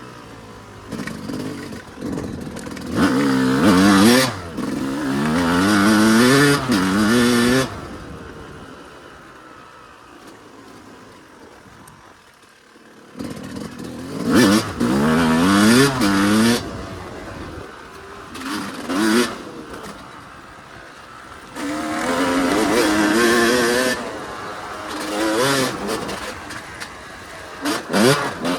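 Yamaha YZ250 single-cylinder two-stroke dirt bike engine revving hard in repeated bursts, its pitch climbing within each burst, with lulls between where the throttle is shut. The longest lull falls in the middle, dropping very quiet about twelve seconds in before the engine picks up again.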